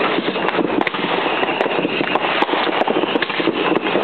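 Many fireworks and firecrackers going off at once: a dense, continuous crackle of pops, with sharper bangs scattered irregularly through it.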